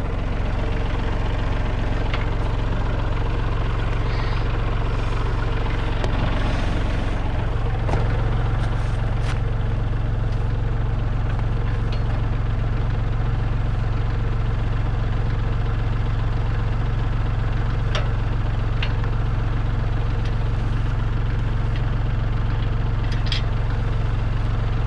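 Kubota L3301 tractor's three-cylinder diesel engine idling steadily, its note shifting slightly about eight seconds in. A few light clicks and knocks sound over it.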